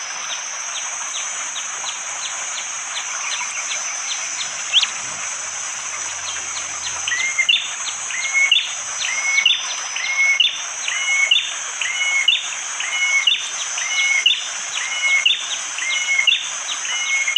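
Bar-winged prinia (prenjak jali) calling: at first quick sharp ticking notes, then from about seven seconds in a loud two-part call repeated about once a second. Under it runs a steady high-pitched drone and a background hiss.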